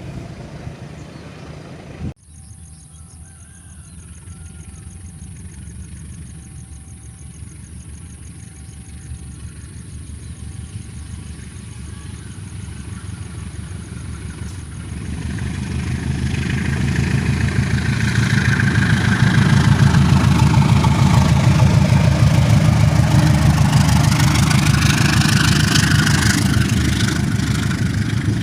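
Train noise: a thin high whine and a row of short evenly spaced beeps, then from about halfway the low rumble of the train builds steadily and stays loud, with sliding tones in it.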